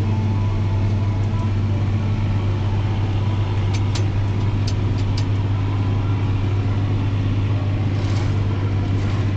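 Diesel engine of a piece of harvest machinery running at a steady speed, a constant low drone. A few light ticks come around four to five seconds in.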